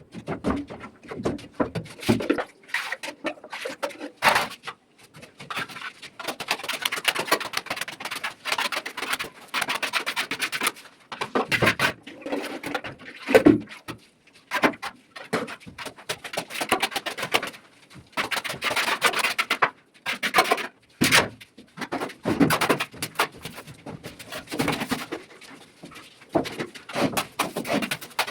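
A plastering tool rubbing and scraping over plaster on a ceiling, in irregular strokes with short pauses.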